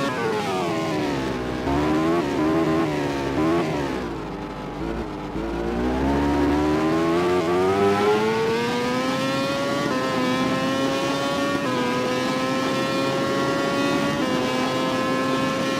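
A MotoGP racing motorcycle engine revving. Its pitch dips and rises through the first few seconds, then climbs steadily under acceleration, with a small drop at each of about three upshifts in the second half.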